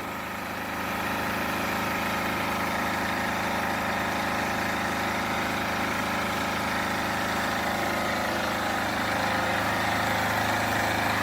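A large engine running steadily, growing a little louder about a second in.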